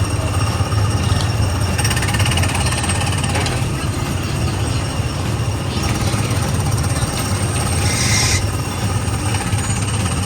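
Small gasoline engine of a Tomorrowland Speedway car running at low speed with a rapid steady putter. A brief hiss about eight seconds in.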